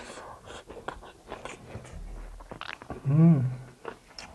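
Close-miked chewing, with many small wet mouth clicks. About three seconds in comes a short hummed voice sound whose pitch rises and then falls.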